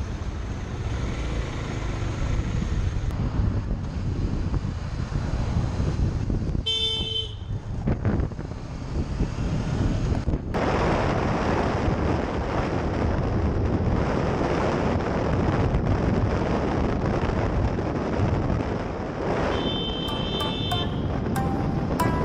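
Running noise of a motorcycle on the road, engine and wind rush on the rider's camera microphone, with a short vehicle-horn toot about seven seconds in and a longer high-pitched beep about twenty seconds in.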